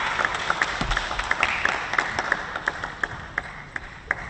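Arena audience applauding, the clapping thinning out and fading away.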